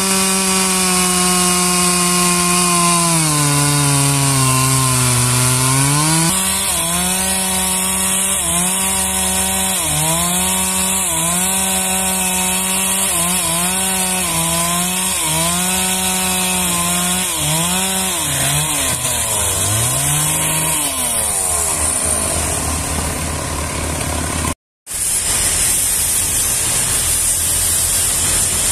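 Engine-driven saw cutting timber. Its engine note sags and recovers about once a second as the blade bites into the wood, then gives way to a steady hiss of sawing. A split-second dropout comes near the end.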